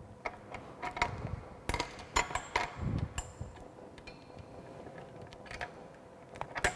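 Scattered light clicks and knocks of plastic pipe pieces and small tools being handled on a workbench, a few with a brief metallic ring.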